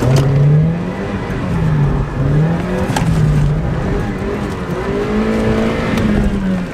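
Mazda Miata's four-cylinder engine revving hard while the car is drifted, its pitch rising and falling several times over a steady hiss.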